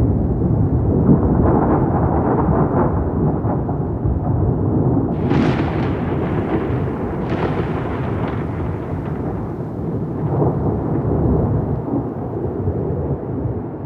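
Rolling thunder rumbling low and continuously, with two sharper cracks about five and seven seconds in.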